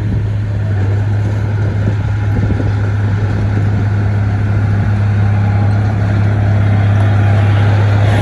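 Bulldozer diesel engine running steadily under load with a deep, constant drone, growing slightly louder near the end.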